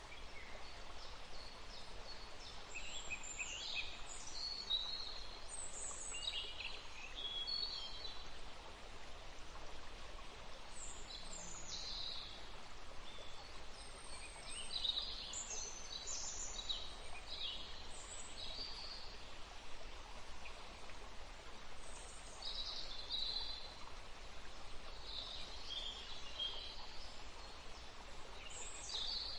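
Forest field recording: a small stream flowing steadily while several birds sing and call in short phrases throughout.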